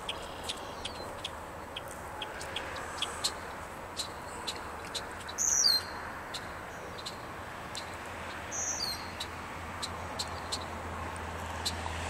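Bird calls from a bird flying overhead: two loud, short, high chirps that fall in pitch, about three seconds apart, over a steady run of quick, sharp, high ticks.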